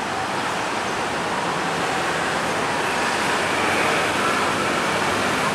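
Approaching KAI diesel locomotive and its train, heard as a steady rushing noise that grows slightly louder.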